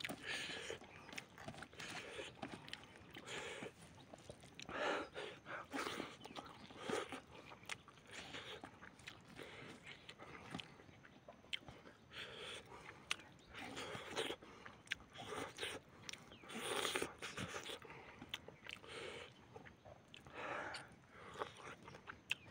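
Close-up chewing and mouth sounds of a person eating rice and chicken by hand, in irregular wet bursts with small smacking clicks.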